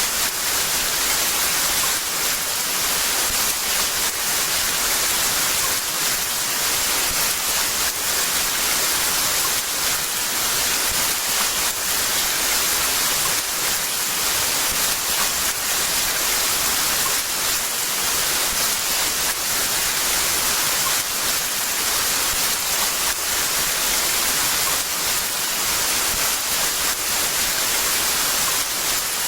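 Heavy rain falling in a steady, dense downpour hiss with no let-up.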